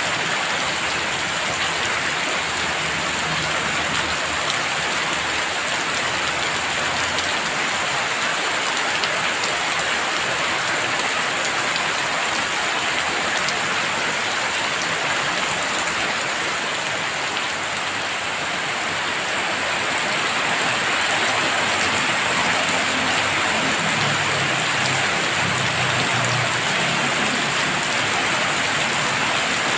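Heavy rain pouring steadily, a dense even hiss of drops on surfaces, growing slightly louder about two-thirds of the way through.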